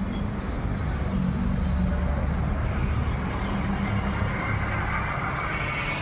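Road traffic: a motor vehicle engine rumbling by, the noise growing stronger about halfway through.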